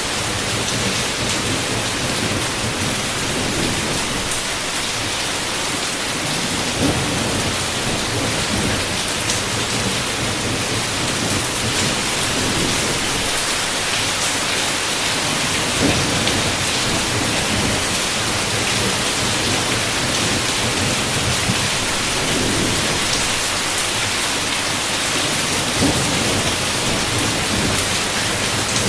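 Heavy rain beating steadily on a window, with low thunder rumbling underneath and three sharper taps standing out along the way.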